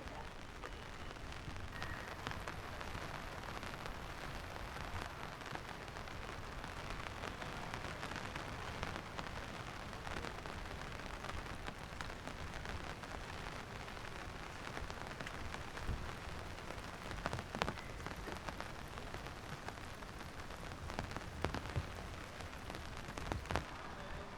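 Steady rain falling, with a few sharp taps in the second half.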